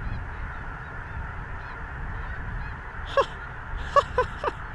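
A huge flock of snow geese calling: a steady, distant chorus of massed calls. About three seconds in, sharper single honks from nearer birds start to stand out, coming faster toward the end.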